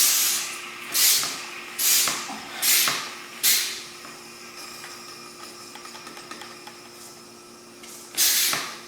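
Manual oil extractor's tube sucking air and the last of the engine oil from the bottom of the lawnmower's crankcase: a hissing, slurping suction sound in five short gulps about a second apart, then one more near the end. It means the sump is almost empty.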